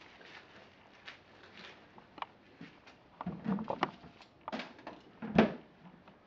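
Plastic toy garbage trucks and bins being handled, with light clicks and clattering, a busy spell of rattling a little past halfway and one loud knock near the end.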